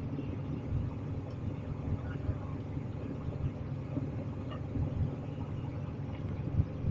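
Steady low rumble of a moving vehicle heard from inside, with a few soft low thumps.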